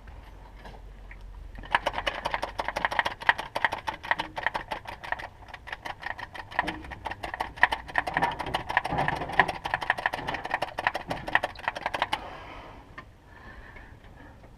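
Ratchet wrench clicking in a fast, even run of ticks for about ten seconds, starting a couple of seconds in and stopping near the end.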